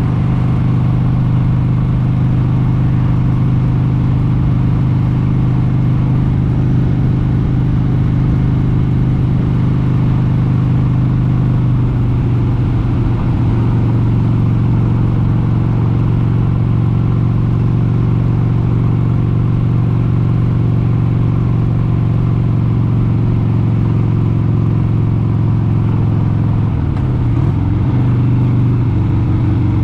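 1996 Harley-Davidson Sportster 883's air-cooled Evolution V-twin running steadily under way at cruising speed. The pitch shifts slightly about twelve seconds in. Near the end the level and pitch dip briefly, then rise again.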